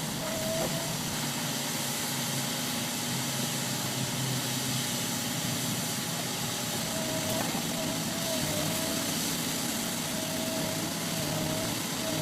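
A heavy machine's engine running steadily under a hiss, with a thin wavering tone that comes and goes.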